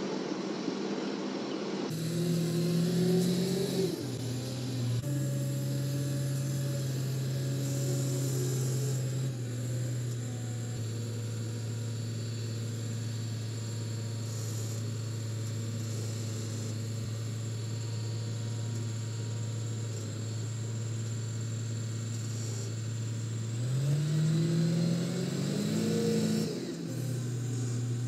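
An engine running at a steady speed, revving up briefly about two seconds in and again near the end.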